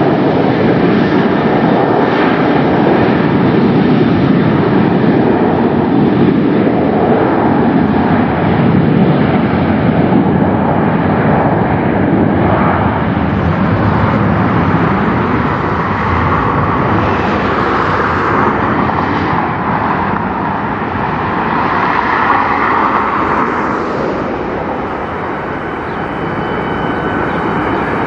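Jet airliner engines at takeoff power: a loud, continuous rush, with a whine that swells in the second half and a slight easing of the level near the end.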